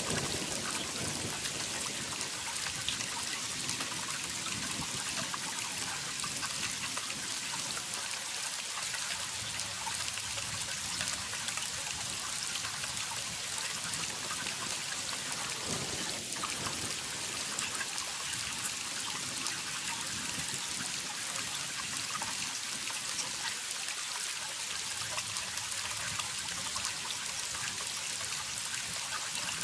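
Waterfall: a steady rushing hiss of falling water, full of fine splashes.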